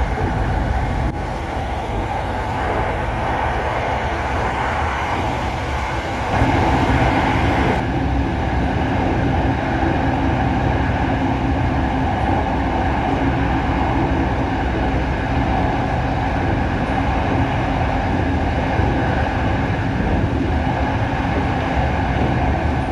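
Electric commuter train running, heard from inside the carriage as a steady rumble and hum of wheels and traction motors, growing louder about six seconds in.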